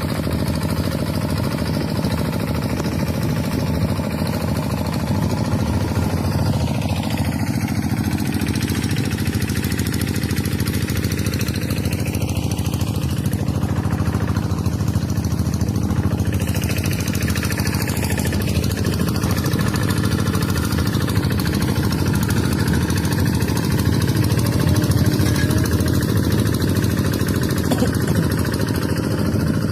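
Tractor engine running steadily at an even pace with a rough, knocking chug.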